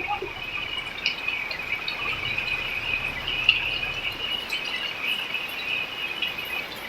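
A steady, high insect trilling over an even hiss of falling rain.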